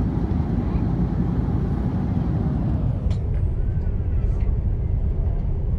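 Steady low rumble of an Airbus A330's jet engines on approach to land.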